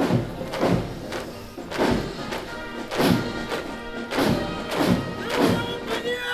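Military marching band playing a march, with a steady beat of heavy bass drum strokes under held brass notes.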